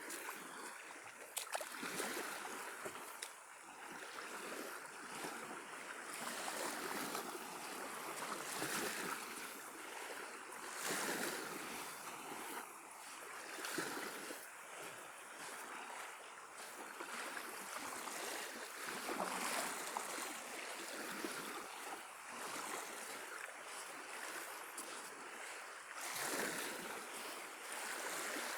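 Small waves of the Sea of Azov washing onto the shore, swelling and falling back every few seconds, with a little wind.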